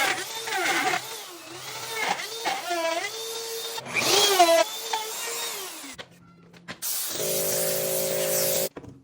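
Bosch GOF 130 plunge router's motor whining at high speed, its pitch dropping and recovering again and again as the bit is loaded in the cut. After a brief lull near the end, a steadier hum sounds and then cuts off suddenly.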